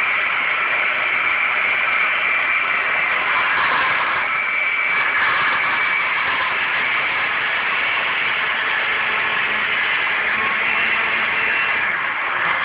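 Blender motor running steadily, mixing a shake.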